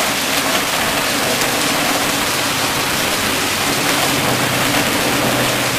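Heavy rain pouring onto a waterlogged road and trees, a steady loud hiss with fine drop patter.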